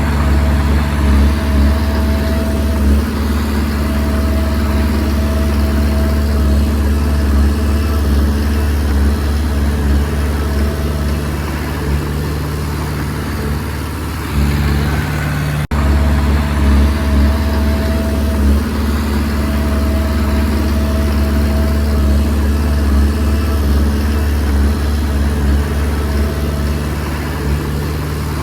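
Komatsu D20P crawler bulldozer's diesel engine running steadily at work, with an on-and-off higher whine. The sound breaks off for an instant a little past halfway and carries on.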